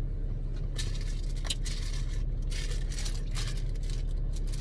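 Light rustling and a few soft clicks from items being handled, over a steady low hum.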